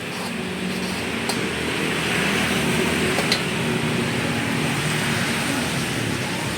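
Street traffic: a motor vehicle's engine running and passing, swelling and then easing off, with two light clicks.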